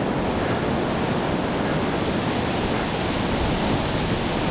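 Water pouring over a dam's spillway, a steady, even rush of falling water.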